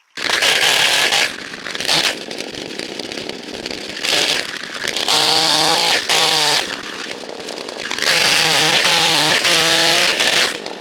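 Two-stroke chainsaw revved in repeated full-throttle bursts of one to three seconds, dropping back to lower revs in between. It starts abruptly.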